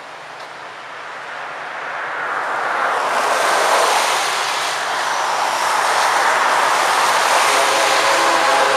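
Approaching Florida East Coast Railway freight train under a steady rushing noise that swells about two seconds in. Near the end the locomotive's horn begins to sound.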